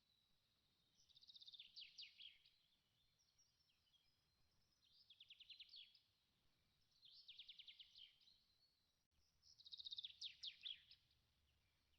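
A bird singing faintly: four short phrases of rapid trilled notes, a few seconds apart.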